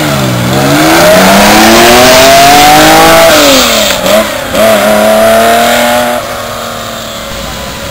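Classic air-cooled Porsche accelerating hard from a standing start. The engine note climbs through first gear, drops at an upshift about three seconds in, climbs again with another shift at about four and a half seconds, then fades as the car pulls away.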